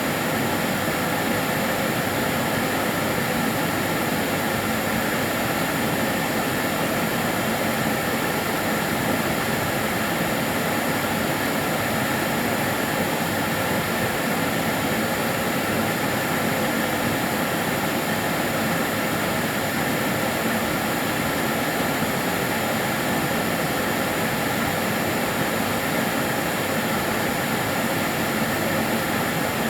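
Karcher DS 6 Premium water-filter vacuum cleaner running steadily: an even rush of air with a few faint steady whining tones on top, one of them high-pitched.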